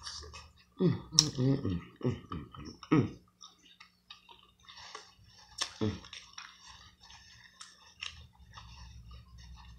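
Close-up sounds of a person eating: chewing with many small wet mouth clicks and smacks. A few brief vocal sounds come in the first three seconds and once more about six seconds in.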